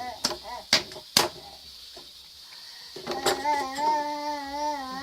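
A few sharp clicks or taps, then after a short lull a high voice holding one long, slightly wavering vocal sound.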